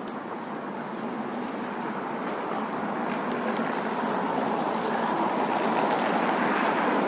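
Street traffic noise: passing cars, a steady rush that grows gradually louder over several seconds.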